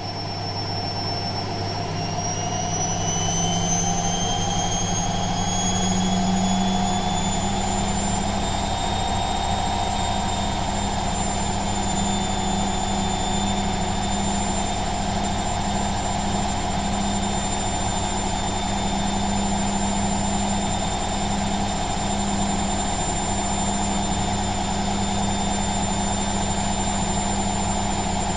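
Washing machine going into its spin cycle: the motor's whine climbs in pitch for the first several seconds as the drum speeds up, then holds steady at full spin speed over a low hum.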